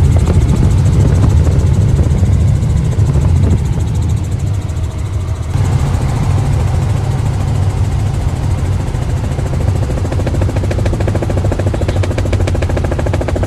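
Helicopter engine and rotor noise, loud and steady, with a fast, even beat of the blades that grows clearer near the end. The sound changes abruptly about five seconds in.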